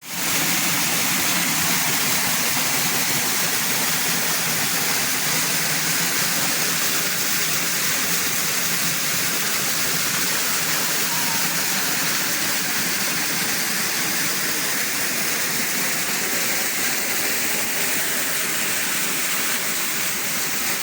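Rushing water running steadily, a dense, even hiss.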